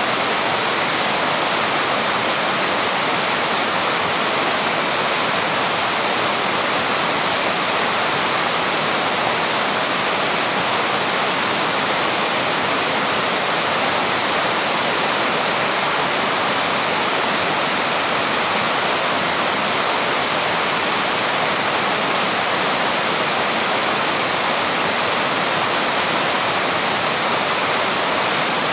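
Waterfall: water pouring and splashing over rocks in a steady, unbroken rush that never changes.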